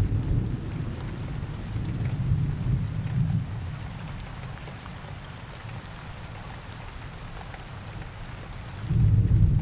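Steady rain ambience with low rolling thunder. One rumble fades over the first three seconds or so, and another swells up near the end.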